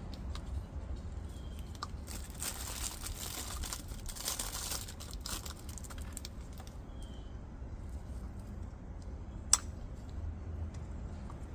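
Crinkling and rustling handling noise from hands working on small parts, strongest between about two and five seconds in, with scattered small clicks and one sharp click near the end.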